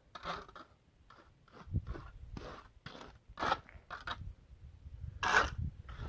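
Gritty scraping and crunching strokes of a tool working wet concrete patch mix, in an uneven run of short strokes with the loudest about five seconds in.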